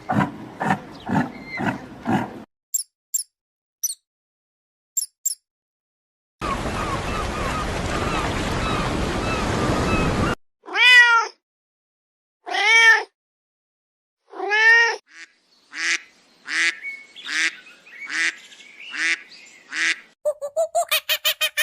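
A series of short animal clips, the loudest being three drawn-out cat meows about two seconds apart, followed by a run of shorter, quicker mews. Before them come a few faint high chirps and several seconds of steady hiss.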